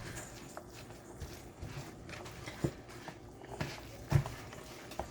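A spoon stirring a thick mixture of shredded chicken, cream cheese, hot sauce and mozzarella in a bowl, with irregular soft thuds and knocks against the bowl, the loudest about four seconds in.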